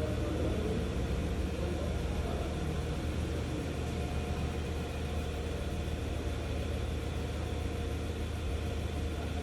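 Nissan Patrol engine idling, a steady low hum.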